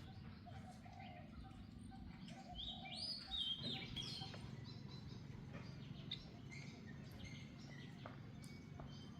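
Faint high chirping calls, a cluster of short up-and-down chirps in the first few seconds and scattered ones later, over a steady low outdoor rumble.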